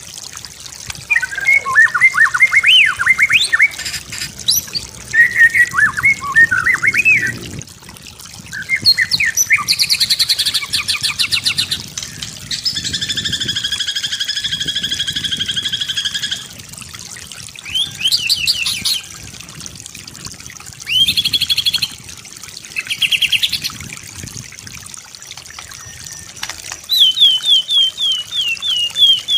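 White-rumped shama singing a varied song: loud whistled phrases, rapid trills and a long steady buzzing trill, with short pauses between phrases.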